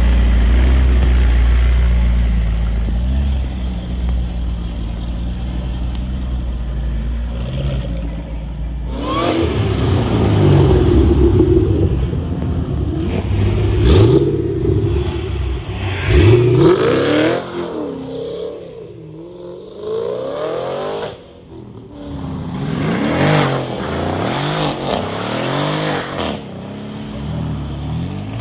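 Sports car engines, first a steady low rumble, then cars accelerating away one after another with rising revs through the gears. A couple of sharp cracks come about halfway through.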